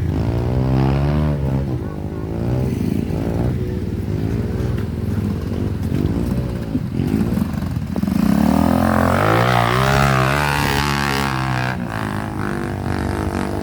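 Honda CRF150L's single-cylinder four-stroke engine running, its pitch rising and falling with the throttle. About eight seconds in, a louder rush of noise joins it for a few seconds.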